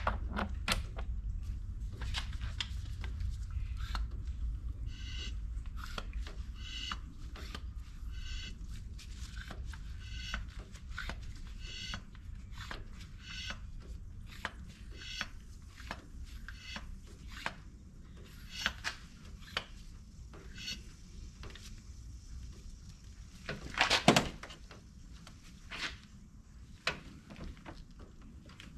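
Cooling-system pressure tester's hand pump being worked, giving a run of squeaky clicks about one a second over a low steady rumble, then sparser clicks and one louder knock near the end.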